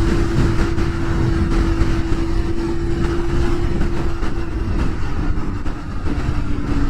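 Kawasaki Ninja ZX25R inline-four through a Yoshimura R77 full exhaust, running at steady high revs under heavy wind rush. The steady engine note fades about four and a half seconds in, then comes back a little lower and sinks slightly near the end.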